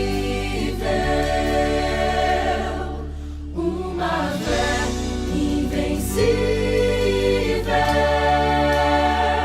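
Christian song: a choir sings long held chords over a steady bass, the chords changing every second or two.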